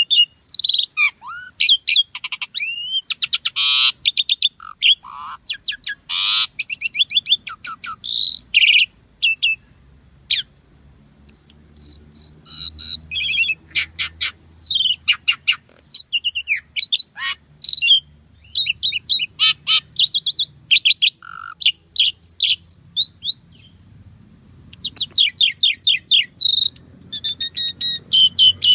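An Asian pied starling (jalak suren) singing continuously in full voice: a fast, varied run of whistles, rapid trills and harsh chatter with barely a pause, a little quieter about ten seconds in.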